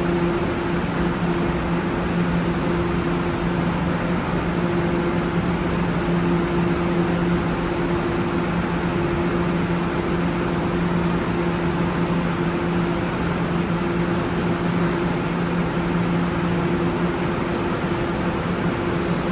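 Steady hum and hiss of a New York City subway train standing in the station, with its ventilation and onboard equipment running: an even rushing noise over a low two-note electrical hum that holds steady throughout.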